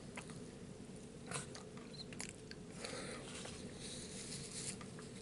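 Faint chewing and eating sounds, with a few small scattered clicks and soft rustles.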